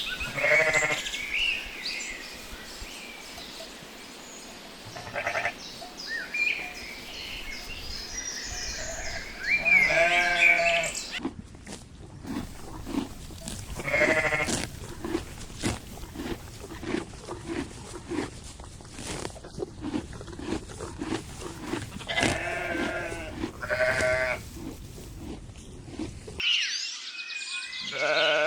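Sheep bleating: about five separate calls spread out, the loudest near 10 and 14 seconds in. Birds sing faintly behind the first part. Through the middle stretch a fast, even run of short clicks goes on between the bleats.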